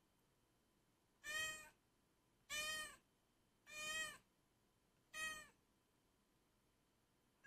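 Domestic cat meowing four times in a row, the meows short and evenly spaced about a second and a quarter apart.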